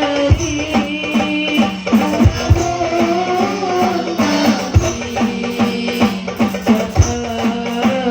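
Hadroh ensemble playing: drum strokes on a steady beat, with a pitched part that slides down in pitch in short, repeated glides.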